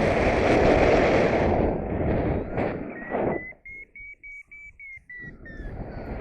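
Wind buffeting the microphone, then from about three seconds in a paragliding variometer's climb tone: quick beeps, about four a second, rising slightly in pitch and falling again near the end as the lift weakens.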